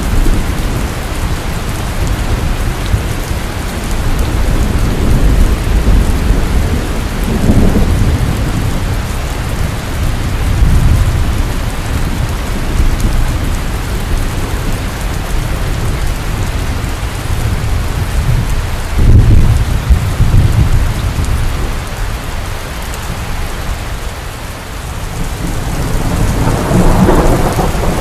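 Heavy rain with a steady dense hiss, and thunder rolling in low rumbles that swell and fade several times. The loudest rumbles come about two-thirds of the way through and near the end.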